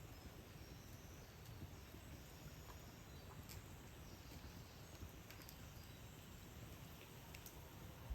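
Quiet outdoor nature ambience: a low steady rumble with faint scattered sharp clicks and a few faint, high, thin chirps.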